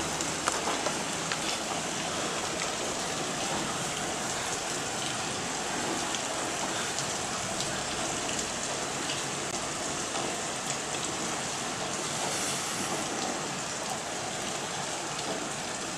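Steady rain falling during a thunderstorm, an even hiss, with a few sharp drip ticks in the first second or two.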